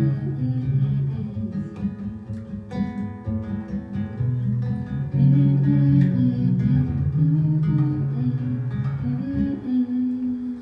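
Guitar picking the song's closing instrumental passage: single notes and chords over low bass notes, stopping near the end.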